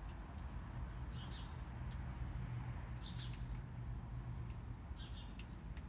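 A bird chirping outdoors in short bursts of a few quick high notes, repeated about every two seconds, over a steady low background rumble.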